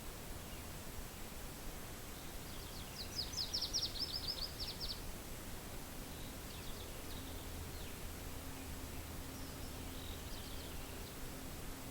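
A songbird singing a rapid trill of about a dozen short high notes, with two fainter, shorter phrases later, over a steady hiss of wind.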